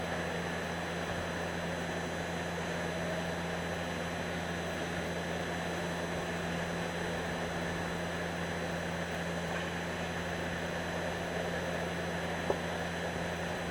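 Diesel truck engine running steadily at low revs while the truck backs slowly toward a loading dock, with one faint click about twelve seconds in.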